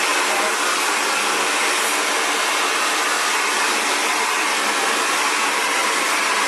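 Xtava Allure 2200-watt ionic ceramic hair dryer blowing steadily at a constant speed.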